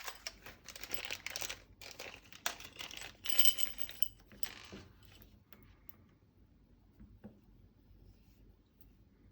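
A plastic parts bag being opened and handled for about five seconds, crinkling, with small metal parts clinking and jingling inside it, loudest about three and a half seconds in. After that there are only a few faint clicks.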